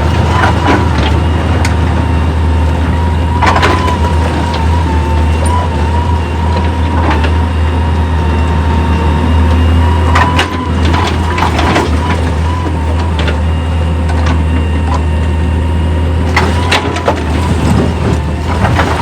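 Heavy machinery running: a steady low engine drone with a constant whine over it, and irregular clanks and knocks of metal and rock every few seconds.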